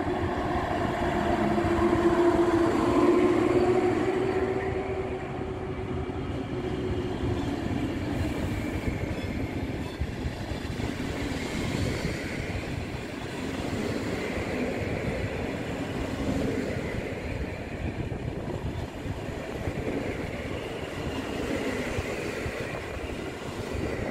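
A passenger train hauled by an EP07 electric locomotive runs past on the adjacent track. A humming tone is heard as the locomotive goes by in the first few seconds, then a steady rumble from the coaches' wheels on the rails.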